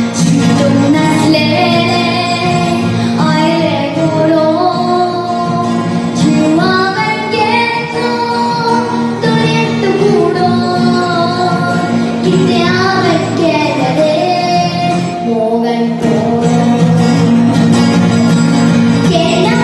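A young girl singing a melody with a wavering, held-note voice over steady instrumental backing.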